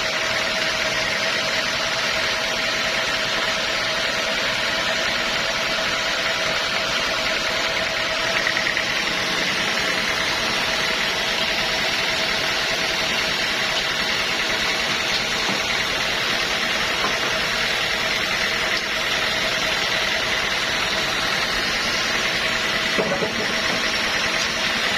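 Sawmill machinery running steadily: an even mechanical noise with a constant hum and a higher steady whine, unchanged throughout.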